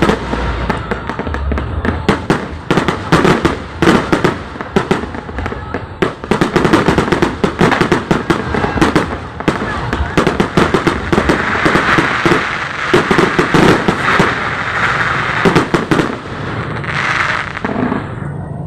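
Fireworks display: a rapid, continuous barrage of bangs and crackles from aerial shells, with a longer stretch of crackling hiss past the middle. Crowd voices are mixed in underneath.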